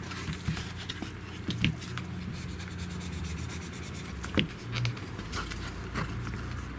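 Faint rubbing and a few small sharp taps from hands handling a phone and its plastic screen protector, working at the bubbles trapped under it.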